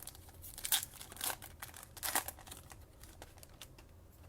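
Trading cards and pack wrapping being handled: a handful of irregular short rustles and scrapes as cards slide against each other, dying away near the end.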